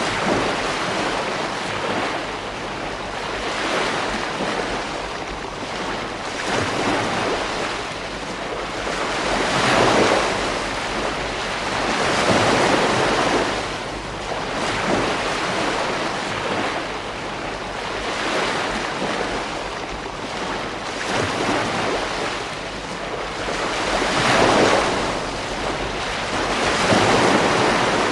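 Ocean waves breaking on a beach, a continuous wash of surf that swells and falls back every few seconds as each wave comes in.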